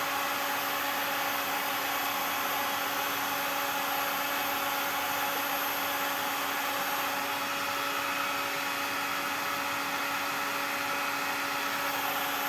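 Hot-air gun running steadily, blowing hot air with a constant motor hum to soften plastic.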